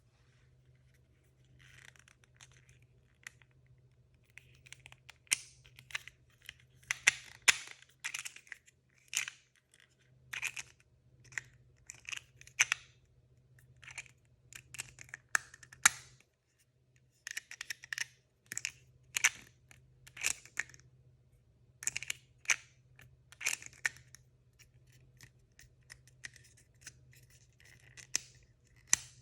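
Packaging torn open and crinkled in a long run of short, sharp, irregular rips and rustles, with a brief pause about halfway through.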